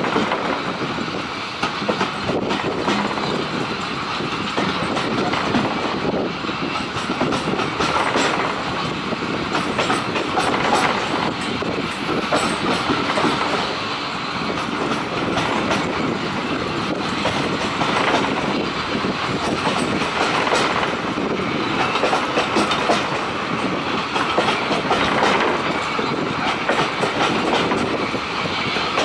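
Passenger train carriage running along the line, with a steady rumble of wheels on rail and irregular clicks from the track.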